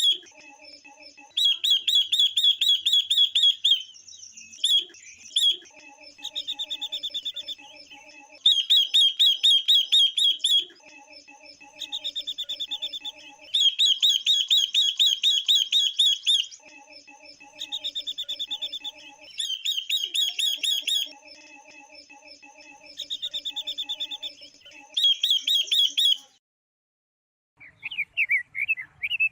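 Female silver-eared mesia and female red-billed leiothrix calling, a call recording used to excite males: repeated bouts of a rapid, high, buzzy trill about one to two seconds long, alternating with lower, evenly pulsed chattering. Near the end the calls break off briefly and then resume as faster, choppier chirps.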